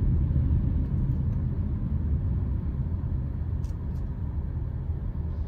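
Steady low rumble of city traffic, with a couple of faint clicks about four seconds in.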